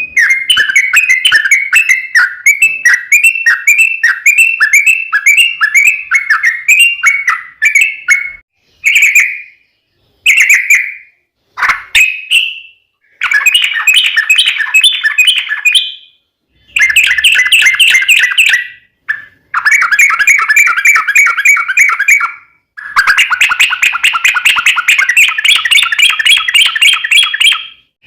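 Yellow-vented bulbul song: loud, bubbly chattering phrases. It opens with about eight seconds of quick repeated notes. Then come a few short calls, and then longer rapid warbled runs broken by brief pauses.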